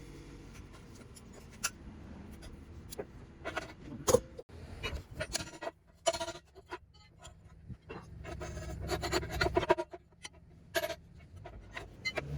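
Metal scraping and irregular knocks on a cast-iron rivet forge as old slag and ash are chipped out with a punch and hammer. One strike a little after four seconds in is the loudest.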